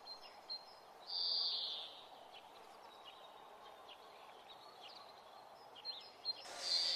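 Quiet outdoor background with faint bird chirps, and a brief high hissing chirp about a second in.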